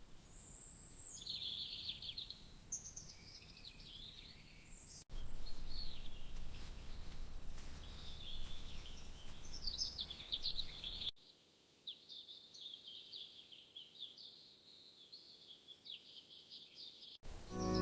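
Forest birds singing, a mix of chirps and trills from several birds, over a low background rumble; the background shifts abruptly twice, dropping almost away about two-thirds of the way through while the birdsong goes on.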